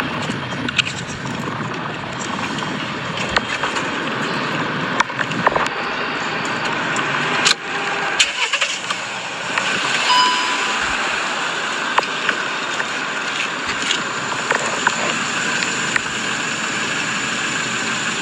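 A car running, heard as a steady noisy rush with scattered clicks and knocks through it and a brief high tone about ten seconds in.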